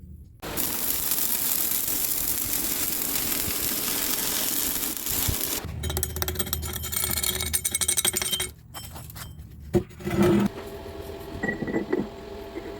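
Metalworking power tool running under load in two stretches, then a few sharp metal clinks and knocks, with a steady motor hum after them.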